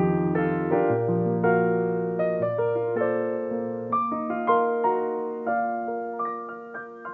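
Solo piano playing, a sequence of sustained notes and chords that grows gradually softer and sparser toward the end, as a piece winds down.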